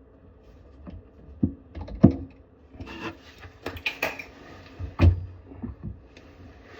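Irregular clicks, knocks and rubbing from hands working with faucet parts and tools, with two sharper thumps about two and five seconds in.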